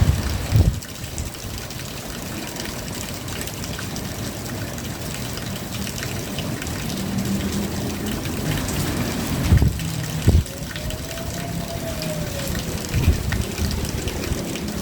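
Steady rain falling, a constant even hiss, with a few short low thumps near the start, twice around ten seconds in, and once near thirteen seconds. A faint tone wavers up and down over the last few seconds.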